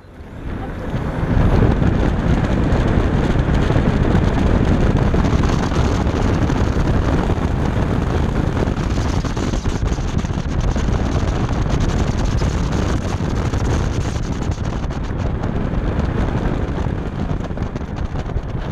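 BMW F10 535i's turbocharged inline-six pulling hard away from a standstill and then driven fast around an autocross course, building over the first second or two. Wind rushes over the microphone throughout.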